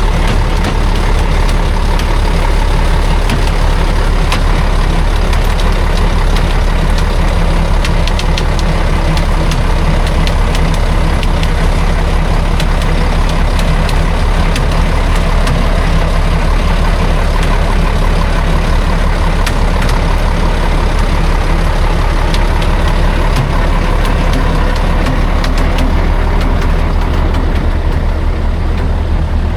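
Heavy logging truck's diesel engine running steadily at low revs, with scattered light clicks.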